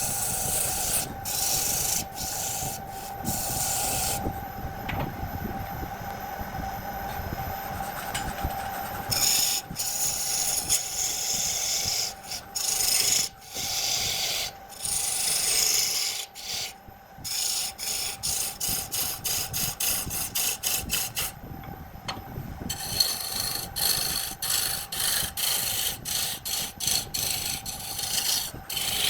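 Wood lathe running with a steady motor whine while a turning tool scrapes and cuts the spinning wood. The cutting comes in stretches broken by short pauses, and turns into quick repeated strokes in the second half.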